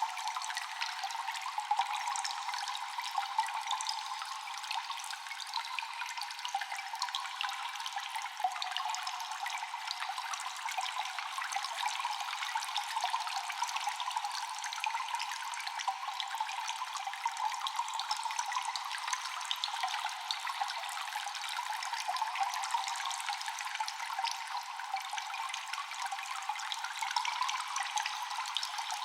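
Cave ambience of constant dripping water: many drops falling and splashing every second over a steady watery hiss, with an echo. The sound is thin and bright, with no low end.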